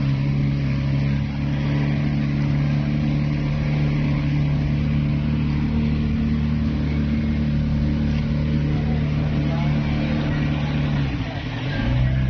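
Motorized bangka's engine running steadily under way, with water and wind noise. Near the end the engine briefly drops in speed, then picks back up.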